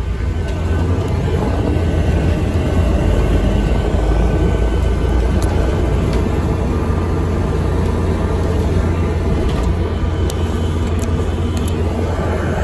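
ADL Enviro400 MMC double-decker bus on the move, a steady low engine and road rumble with a few light clicks and rattles.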